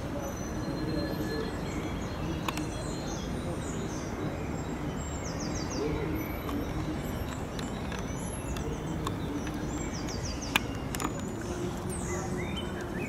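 Small songbirds chirping and trilling over a steady outdoor background noise, with a few sharp clicks.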